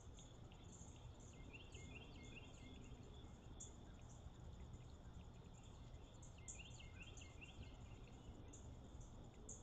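A songbird singing two short phrases of quick notes, about a second and a half in and again about six and a half seconds in, over a steady high-pitched chirping of insects and a faint low background hum.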